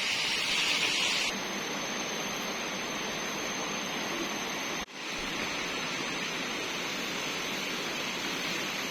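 Waterfall's rushing water, a steady even roar. A thin high steady tone joins about a second in, and the sound cuts out for an instant just before halfway and then resumes.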